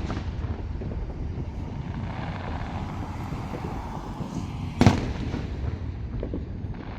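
Aerial fireworks going off: one sharp bang about five seconds in, with a hissing crackle in the middle and a steady low rumble underneath.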